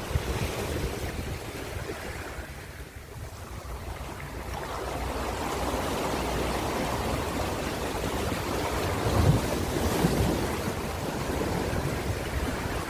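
Ocean surf: waves washing in and drawing back. The wash thins a few seconds in, then builds to a loud break about two-thirds of the way through.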